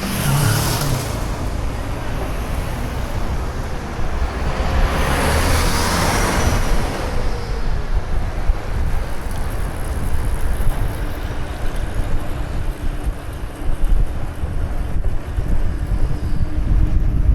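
Wind rumbling on the microphone of a moving bike ride, with road traffic going by; one vehicle swells past about five seconds in.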